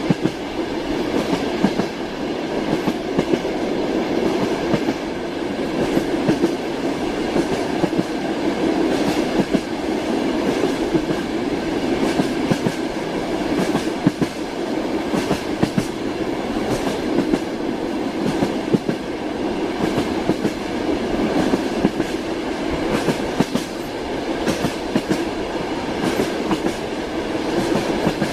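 Passenger railway carriage in motion: a steady rumble of the wheels on the rails, with frequent clacks as the wheels run over rail joints.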